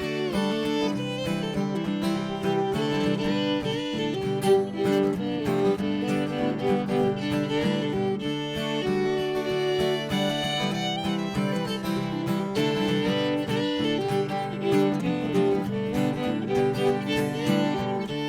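Instrumental intro of a live acoustic country-bluegrass song: fiddle melody over strummed acoustic guitar.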